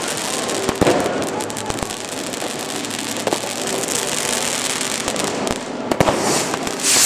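Fireworks going off: a continuous crackle and hiss with many sharp bangs scattered through it, and a louder rushing surge near the end.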